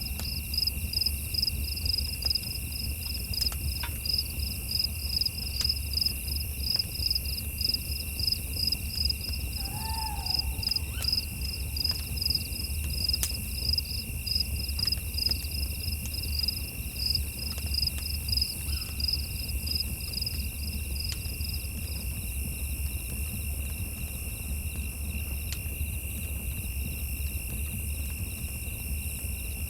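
Night insects: one chirps in a rapid, even pulse that stops about two-thirds of the way through, over a second, lower insect trilling without a break. A low rumble underlies it, and a single short call comes about a third of the way in.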